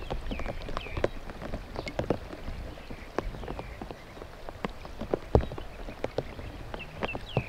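Raindrops tapping and dripping at an irregular pace over a soft hiss of rain, with a few short high chirps near the start and again near the end.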